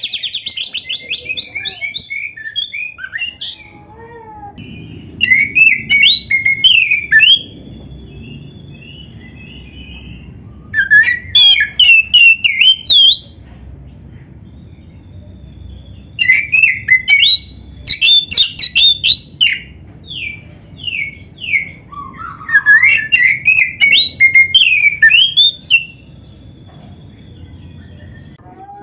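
Oriental magpie-robin (kacer) singing a varied, rapid song of whistled and chattering notes, in about five loud bouts separated by pauses of a few seconds, over a faint steady low background noise.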